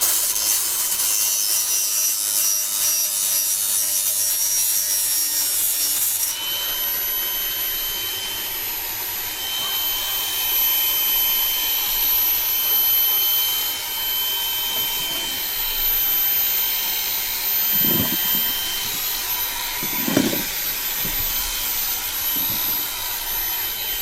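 A power tool grinding metal edges smooth: a harsh rasping for about six seconds, then a steady high whine, with a couple of dull knocks near the end.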